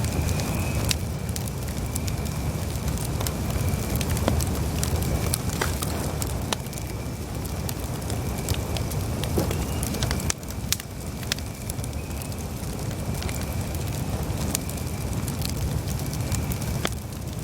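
Campfire burning: scattered sharp crackles and pops of burning wood over a steady low rumble, with a faint thin high tone running through it.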